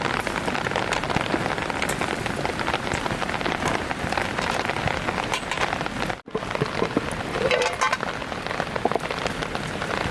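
Heavy rain falling steadily. The sound cuts out for an instant about six seconds in.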